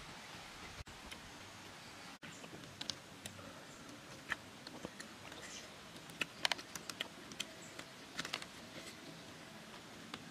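A person chewing and smacking their lips while eating: faint, scattered wet clicks over a steady low hiss, with a quick cluster of them about six seconds in.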